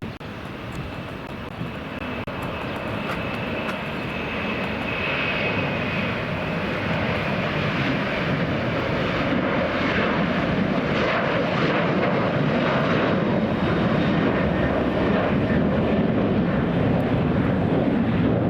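Jet airliner engines: a broad rush with a thin high whine in the first few seconds, growing steadily louder over the first half and then staying loud.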